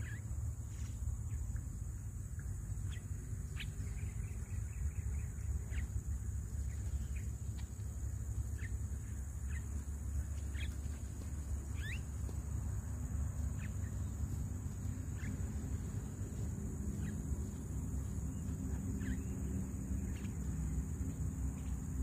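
Birds calling in short separate chirps and whistles, one every second or two, over a steady high insect drone and a low steady rumble.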